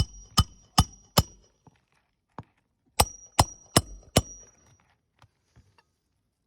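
Hammer driving roofing nails through asphalt shingles: two runs of four sharp, evenly spaced blows, about two and a half a second, each with a short metallic ring. A few faint taps follow near the end.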